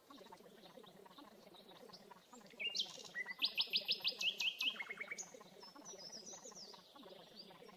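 A songbird singing one fast phrase of rapidly repeated high notes, starting about two and a half seconds in and lasting about two and a half seconds, followed by fainter calls, over a faint steady low background.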